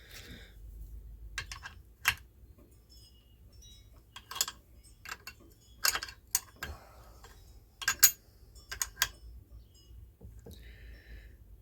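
Hand tools clicking and clinking against metal small-engine parts while a puller is tightened on the governor: irregular sharp clicks, a cluster of them around the middle, with a brief scrape near the start and another near the end.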